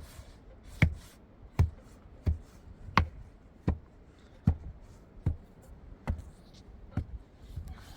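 A steady series of about ten sharp knocks, roughly one every three-quarters of a second, like repeated hand strikes or blows.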